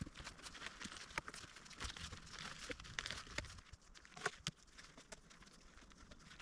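Dry leaves and small twigs crackling and snapping in quick, irregular clicks, busier in the first few seconds and sparser after, with one sharper snap a little past the middle.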